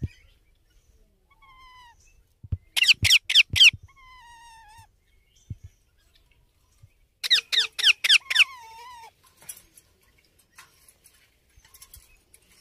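Baby Indian ringneck parakeet calling: a quick run of about four high-pitched, downward-sweeping chirps about three seconds in, and another run of about five about seven seconds in, with fainter drawn-out tones in between.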